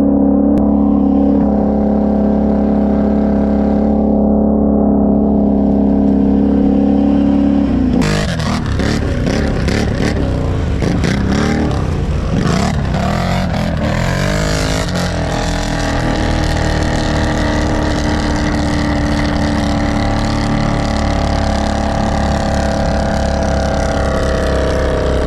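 An ATV engine runs at a steady speed. About eight seconds in, it changes abruptly to the engine revving and varying under way, with a dense rushing noise over it.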